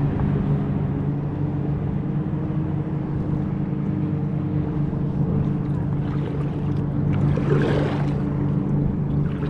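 Motorboat engine running at a steady low drone, with a brief splash-like rush of noise about seven and a half seconds in.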